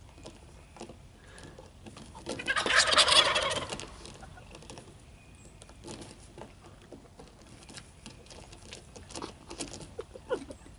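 Jakes (young male wild turkeys) gobbling: one loud, rattling gobble burst about two seconds in, lasting about a second and a half, with faint ticks and rustles around it.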